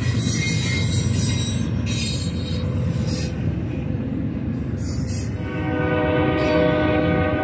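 Freight train of double-stack intermodal cars rumbling steadily past at speed. About five and a half seconds in, a locomotive air horn starts sounding a steady chord over the rumble.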